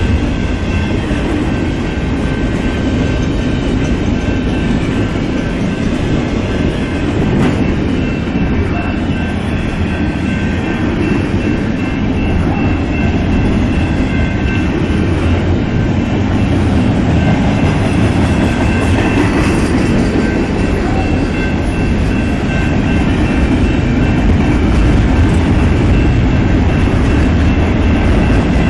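Intermodal freight train rolling steadily past: a continuous rumble of car wheels clattering over the rails, with faint high steady tones from the wheels on the rail.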